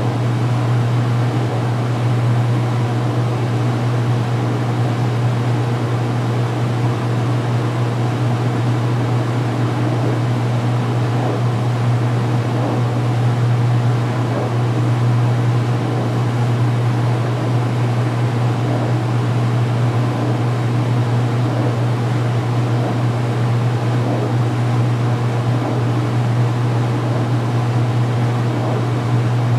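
2016 Speed Queen top-load washer in its final spin at full speed: a steady, even hum from the motor and spinning basket.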